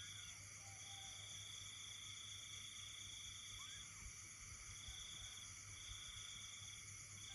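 Night chorus of insects: a steady high-pitched buzz from many insects, with one insect trilling in long phrases that stop and start several times. A few faint, short frog calls sound lower down.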